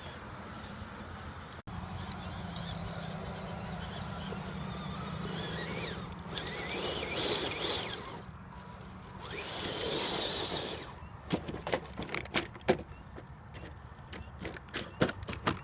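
Radio-controlled scale truck driving over rough ground. Its motor and drivetrain run with a steady hum, rise in two louder spells of whining and rushing, then give way to a run of sharp knocks and clatters over the last few seconds.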